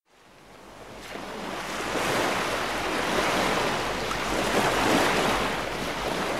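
Sea surf, a steady rushing wash of waves that fades in over about two seconds and then holds.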